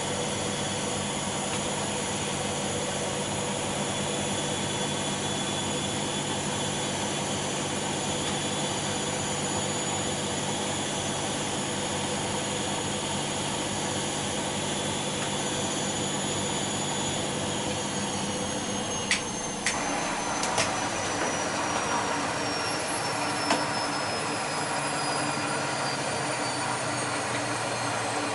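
Bosch Maxx Special WFL 248Y washing machine in a high-speed spin, with a steady, even whine. About two-thirds of the way through, the whine starts to fall slowly in pitch as the drum slows, and a few sharp clicks are heard.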